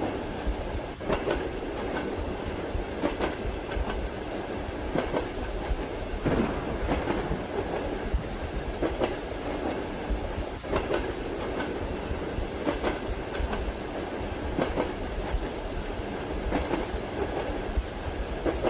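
Moving passenger train heard from inside the carriage: a steady rumble with the wheels clacking over rail joints, sharp knocks recurring every second or two, often in pairs, over a bed of rain.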